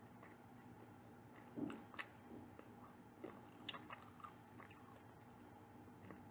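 Someone bites into a soft bakery pastry or bun about one and a half seconds in, then chews it quietly with small moist clicks and crackles.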